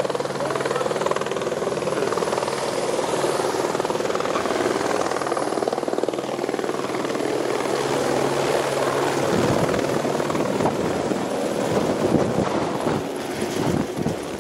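Helicopter rotor chop and engine drone, steady and continuous. From about nine seconds in, the low steady tones drop away and irregular low thumps take over.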